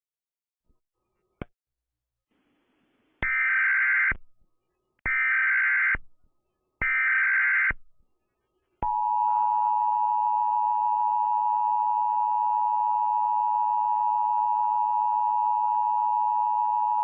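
Emergency Alert System signal: three one-second bursts of SAME digital header data, then, about nine seconds in, the steady two-tone EAS attention signal held for about eight seconds, announcing an emergency weather alert.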